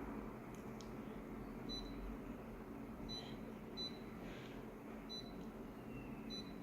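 Photocopier control panel beeping several times as its buttons are pressed, short high beeps scattered across a few seconds over the machine's faint steady hum.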